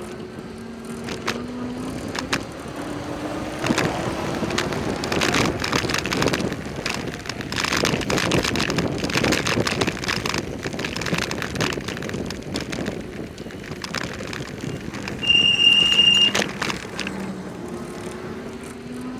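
Riding a bicycle in traffic: a steady rush of wind and road noise with motor vehicles going by. About fifteen seconds in there is a brief, loud, high-pitched squeal lasting about a second.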